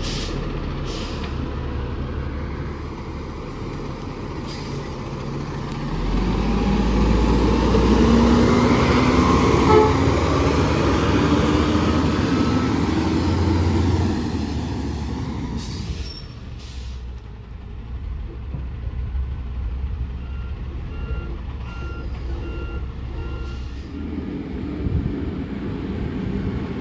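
Refuse truck's diesel engine running, then revving harder for about eight seconds with a slowly rising whine. Short air-brake hisses come a few times, and near the end a reversing alarm beeps about five times.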